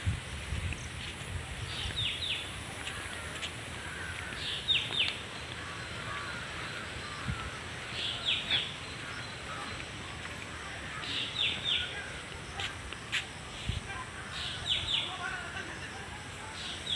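Birds singing: one bird repeats a short phrase of two or three quick descending notes about every three seconds, with softer chirping from other birds in between.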